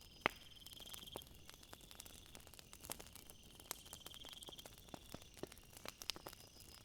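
Crickets chirping in a faint night ambience: a steady high drone with two short pulsed trills, under scattered sharp clicks and crackles.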